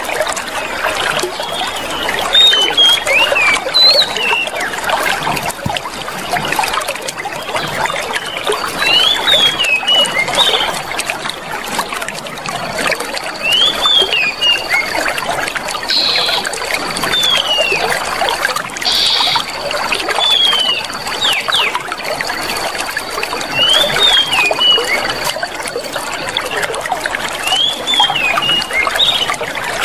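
Clear water trickling and flowing steadily, with small birds chirping in short sweeping calls every few seconds. A thin, steady, high-pitched tone runs through the middle of the stretch.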